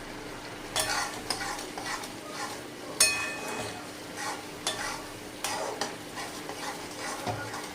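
A spatula scraping and stirring chicken mince in a hot kadai: an irregular series of short scrapes against the pan over a light sizzle, as the keema is cooked down dry in its masala. The sharpest scrape comes about three seconds in.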